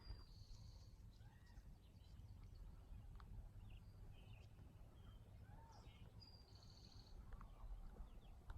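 Faint songbirds calling: scattered short chirps and whistled notes, with one high phrase heard twice, near the start and about six and a half seconds in, over a low rumble.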